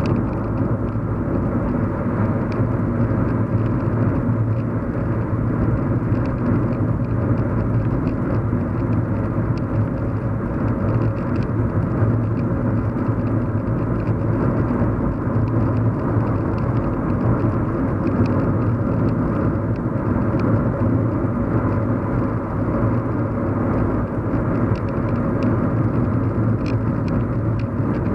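Steady low road hum and rumble inside a moving car's cabin, engine and tyre noise holding an even level, with a few faint light ticks.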